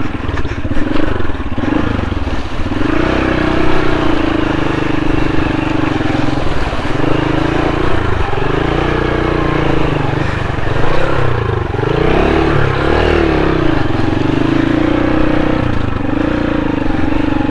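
Off-road motorcycle engine running under load on a rough, muddy trail, its pitch rising and falling again and again as the throttle is worked.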